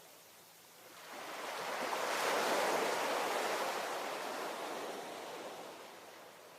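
A single ocean wave breaking and washing up the shore: the surf sound swells about a second in, peaks a second or so later, then slowly fades away.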